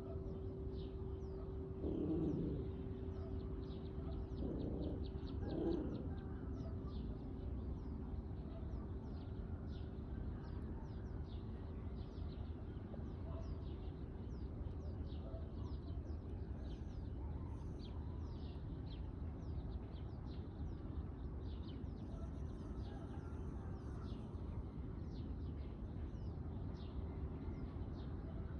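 Many small birds chirping at dawn: a dense stream of short, high chirps over a steady low rumble, with a few louder, lower calls in the first six seconds.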